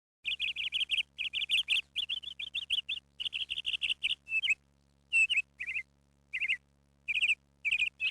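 A small bird chirping in quick runs of high, sharp notes, several bursts of rapid chirps separated by short pauses, over a faint steady low hum.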